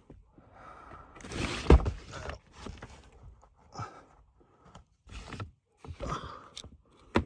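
Milwaukee utility knife cutting and peeling back tape on a condensate drain line: scattered scrapes and rustles with short pauses, a louder knock about two seconds in, and a sharp click near the end.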